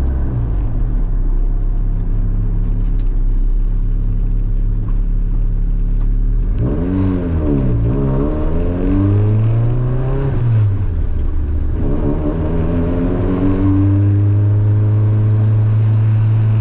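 Honda Civic's engine heard from inside the sound-deadened cabin, running steadily at cruise, then the revs dip and climb again about seven seconds in and rise once more near the end as the car is taken up to the RPM where it used to drone and rattle.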